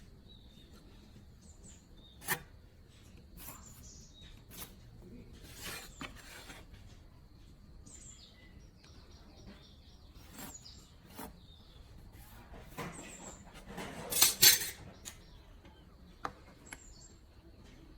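Scattered metallic clinks and knocks of tools and metal parts being handled, with a louder clatter about fourteen seconds in. Birds chirp faintly in the background.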